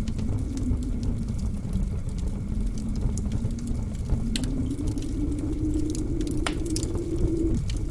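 Crackling wood fire in a fireplace, with a few sharp pops, over the low moaning howl of blizzard wind that slowly wavers in pitch.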